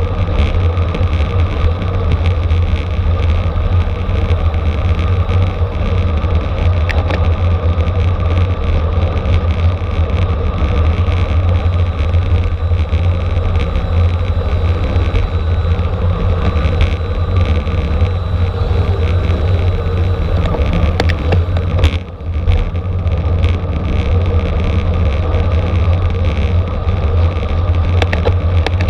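Steady wind rumble on the microphone of a road bike moving at racing speed, mixed with road and tyre noise. The noise dips briefly about twenty-two seconds in, and a few faint clicks come through.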